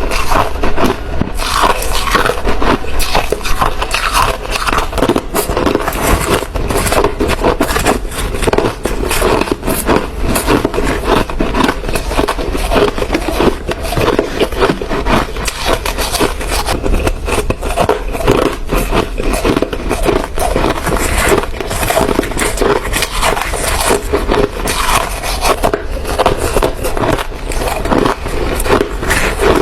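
Hard ice being bitten and chewed close to the microphone: a dense, irregular run of crunches and cracks that never lets up.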